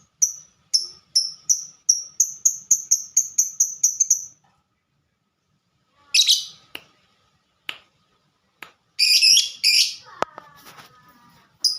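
Lovebird giving its 'ngetik' call, a run of short, high, clipped chirps that speeds up over about four seconds. After a pause come a few harsh screeches and some clicks.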